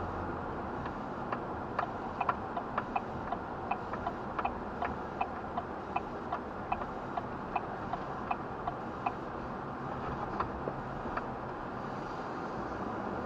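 Turn-signal indicator clicking in the cabin of a Duramax 2500 pickup, a steady tick at about two and a half clicks a second over a low steady hum from the truck. The ticking stops about nine seconds in.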